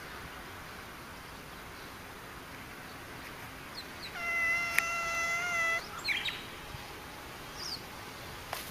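A cat meowing once, a long level call lasting about a second and a half, starting about four seconds in. A few short, high chirps follow just after.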